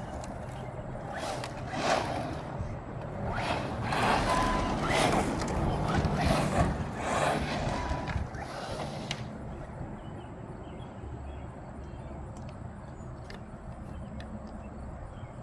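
Mojave 4S RC truck running in repeated surges of throttle, each a second or so long. About nine seconds in it goes quieter, leaving only faint ticks over a steady background.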